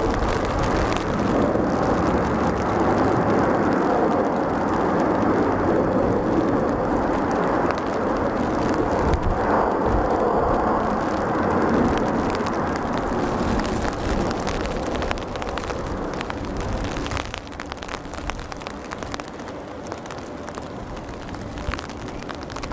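Jet airliner landing close by: its engine noise swells to a loud, steady peak and then fades away over the last several seconds, with rain drops pattering.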